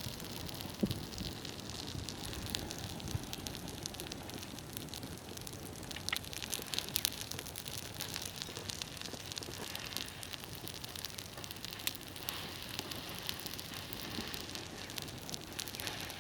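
Mass of burning safety matches crackling, with frequent small pops over a steady hiss.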